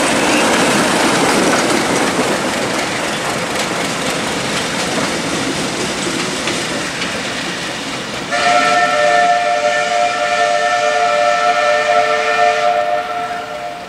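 Passenger train rolling past on the rails with wheel clatter, fading as it moves away. About eight seconds in, a train sounds a long chord-like warning blast of several notes, held for about four seconds.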